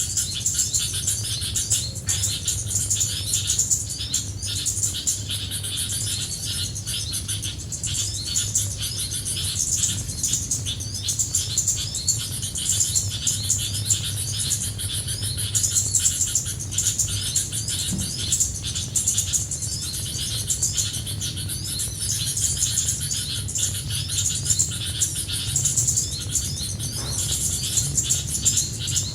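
Dense, unbroken chirping of many small birds, fast high calls overlapping, over a steady low hum.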